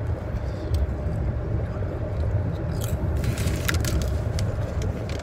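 Steady road rumble inside a moving car's cabin, with crisp crunching as ridged potato chips are chewed. The crunching is heaviest a little past the middle.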